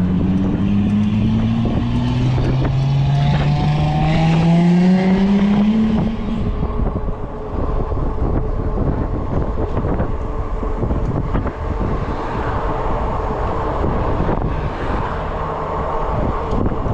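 Riding noise of an electric bike at speed: for the first six seconds a motor tone rises steadily in pitch as it speeds up, then wind buffeting and tyre rumble carry on with a faint steady hum beneath them.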